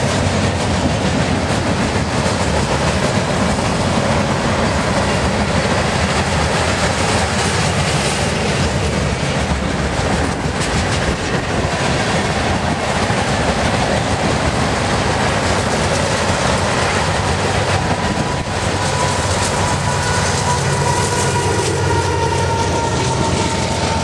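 Loaded freight train cars (boxcars and tank cars) rolling past at speed, a steady rumble with wheels clicking rapidly over the rail joints. A thin high tone joins in over the last several seconds, falling slightly in pitch.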